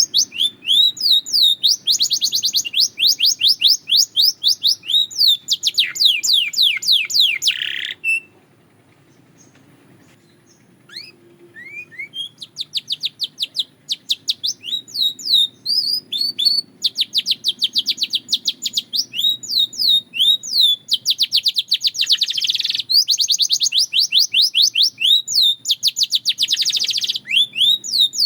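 Belgian canary singing long, rapid trills of repeated falling notes, many a second. The song breaks off for a few seconds about eight seconds in, with only a few soft notes, then resumes.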